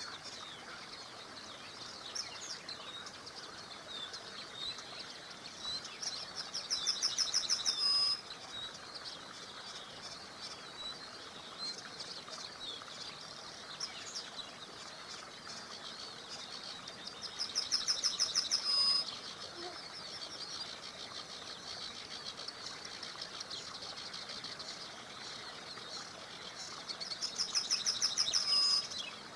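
A songbird repeating a loud, rapid trill three times, about ten seconds apart, each trill swelling over about two seconds and ending abruptly. Scattered short chirps from other birds and a steady faint hiss of a small river lie under it.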